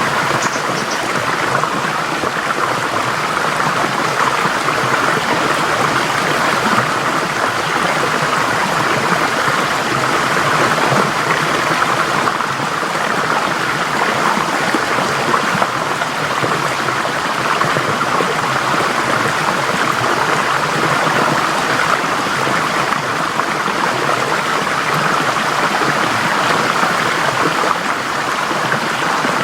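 A forest stream flowing steadily over rocks, a constant rushing of water.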